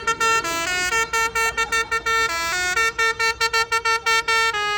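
A musical vehicle horn playing a tune: a quick run of short notes that step up and down in pitch, with a few longer held notes, the longest near the end.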